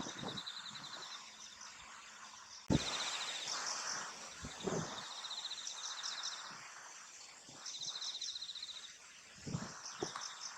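Insects chirping in repeated trains of fast, even pulses, each train lasting about a second, with short high bird chirps between them.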